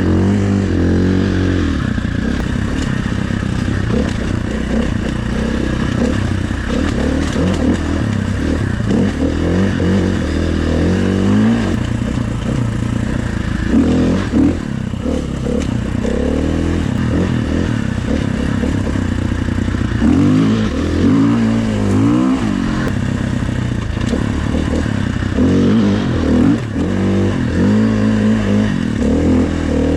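Dirt bike engine revving up and down again and again in quick surges as it is ridden through slippery mud and thin melting snow.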